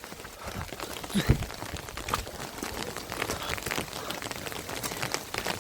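Rain falling steadily, a dense patter of many small drops ticking on surfaces. There is a brief voice-like sound about a second in.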